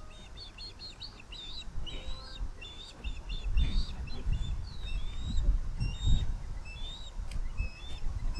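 Birds chirping: a rapid string of short, high chirps, some sliding up or down in pitch. A low rumble underneath grows louder from about three seconds in.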